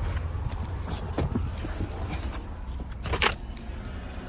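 Pickup truck engine idling just after being started, a steady low rumble, with scattered clicks and a sharp knock about three seconds in.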